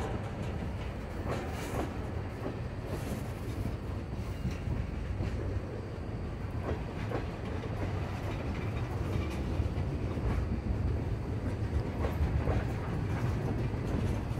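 Freight train of tank cars rolling past: a steady low rumble of steel wheels on the rails, with scattered clicks as the wheels cross rail joints.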